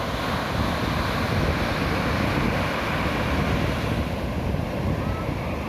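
Ocean surf breaking and washing ashore in a steady rush, with wind buffeting the microphone.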